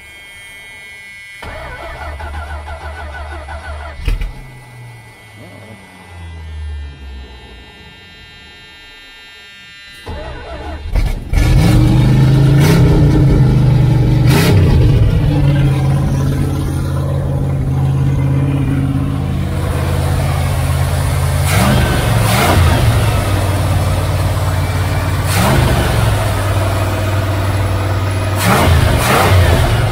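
The starter cranks the 1978 Dodge Aspen R/T's V8 in short tries. About eleven seconds in the engine catches and keeps running loudly, and the throttle is blipped several times, each rev rising and falling.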